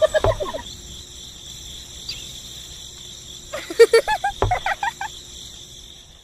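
Steady, high insect chirring, like crickets. Two short bursts of warbling, pitch-bending calls break in, one right at the start and one past the middle.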